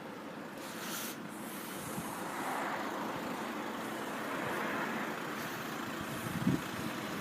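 Road traffic at the level crossing: a motor vehicle passing, swelling louder and then easing. A few low gusts of wind bump against the microphone near the end.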